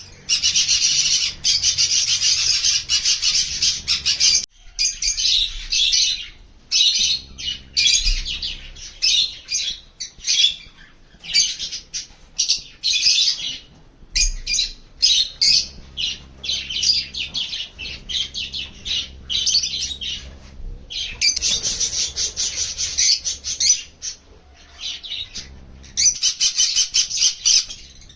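Small pet parrots chattering: dense, rapid, high-pitched chirps and squawks in long bursts broken by a few brief pauses.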